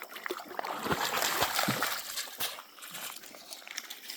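Creek water sloshing and splashing, louder for the first two seconds, then quieter with light trickling.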